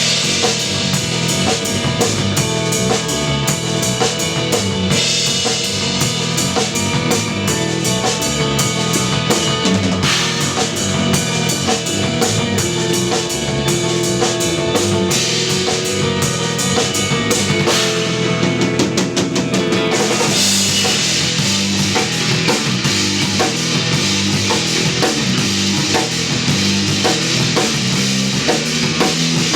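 Live instrumental progressive/post-rock played by an electric bass, electric guitar and drum kit, the full band in with steady drumming. From about 20 seconds in, the cymbals wash more densely over the top.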